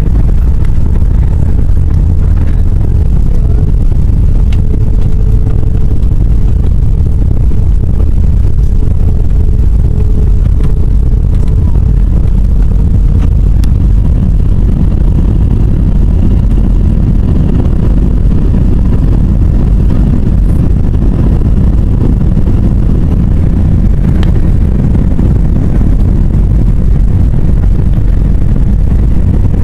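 Loud, steady rumble of an Airbus A320's engines and airflow heard from inside the cabin during landing, with a steady hum in the first half that fades out about halfway through.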